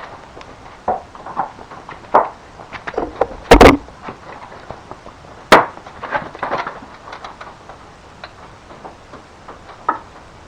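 Irregular knocks and clatter of hard objects, loudest a heavy double bang about three and a half seconds in and a sharp crack about two seconds later, with smaller clicks around them.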